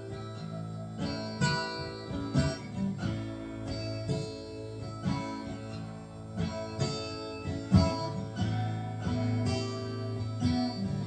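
Acoustic guitar in AADGBE open tuning playing an instrumental passage: separate plucked notes ring on over a sustained low bass note.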